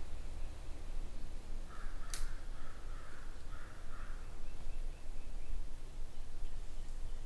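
A crow cawing about four times in quick succession, harsh calls, with a sharp click about two seconds in. Low wind rumble runs underneath.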